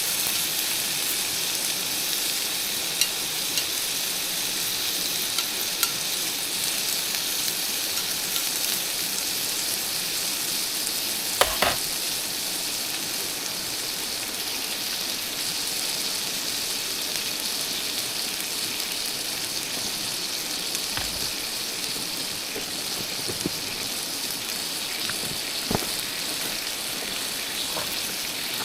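Food sizzling steadily over a campfire, with a few scattered sharp pops and ticks.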